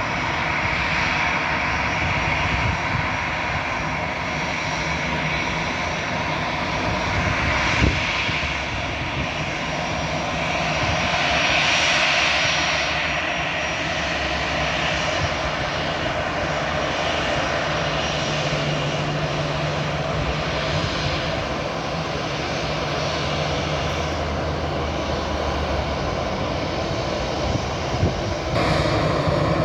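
Jet engines of an Airbus A320 running, heard from outside the aircraft as a continuous broad rush that swells and eases slowly, loudest about twelve seconds in.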